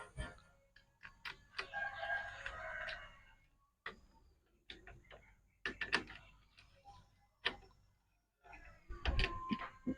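Irregular light metallic clicks and taps of hand tools and motorcycle clutch parts being fitted, in scattered clusters with short pauses between them.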